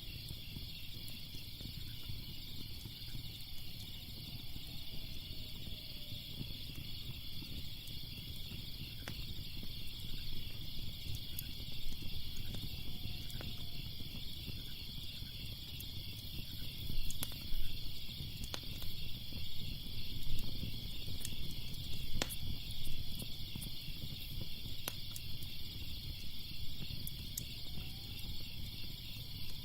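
A steady chorus of crickets chirping, over a crackling wood fire: scattered sharp pops and a low rumble, with the pops louder and more frequent in the second half.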